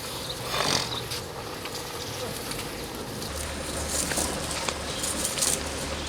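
Livestock-market ambience: background voices mixed with cattle sounds, with scattered knocks and short hissy noises over a low steady hum.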